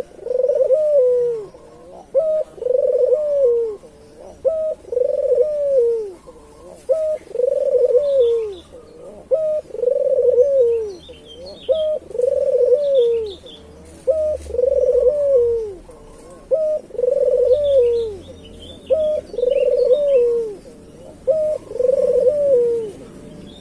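Local puter dove (Barbary dove) cooing over and over, about once every two seconds. Each phrase is a short note followed by a longer rolling coo. Faint high chirps of small birds are heard now and then.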